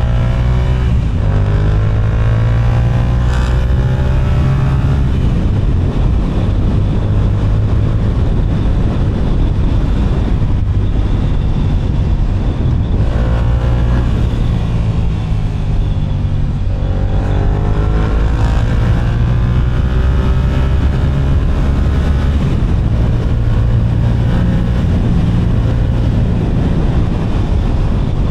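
Yamaha R7's CP2 parallel-twin engine through an Akrapovic exhaust, riding in traffic: it pulls away with rising revs near the start, briefly around the middle, and again in a longer run of climbing pitch through the gears later on, with lower, steadier running in between.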